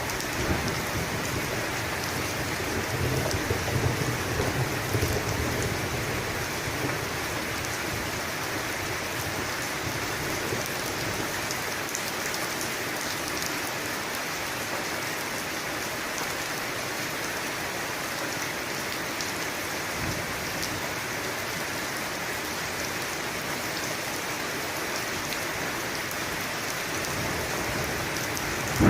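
Steady rain falling on a surface, an even hiss of drops, with a low thunder rumble dying away in the first few seconds.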